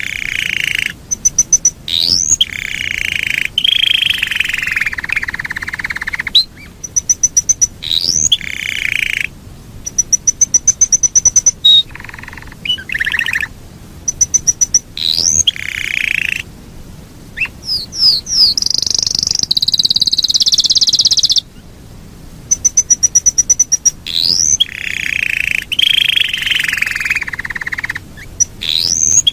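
Yorkshire canary singing long rolling phrases: fast runs of high clicking notes, quick rising whistles, and drawn-out trills held for a second or two, repeated over and over. About two-thirds of the way in there is a higher, longer trill.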